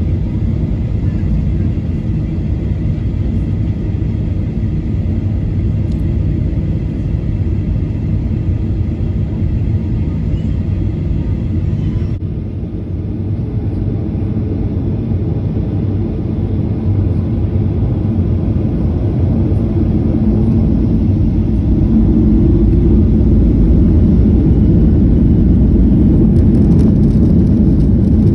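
Jet airliner cabin noise heard from a window seat: a steady low rumble of engines and airflow that grows louder over the last several seconds.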